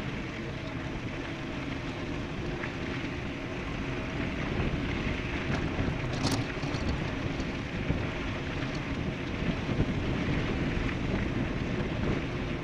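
Wind buffeting the microphone and tyre rumble of an e-bike riding fast downhill, gusting up and down, with one sharp click about six seconds in.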